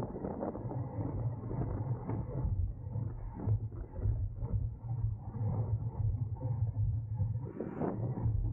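Road bicycle riding noise at race speed: wind rushing over the microphone with tyre and drivetrain noise, a steady low rumble that swells and dips.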